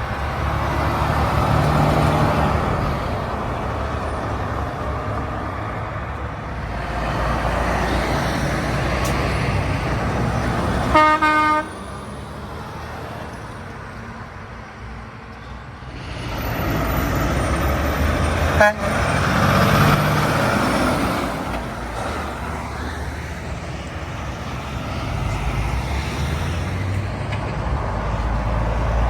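Trucks and other road traffic passing one after another, each pass swelling and then fading. A vehicle horn gives one short toot about eleven seconds in.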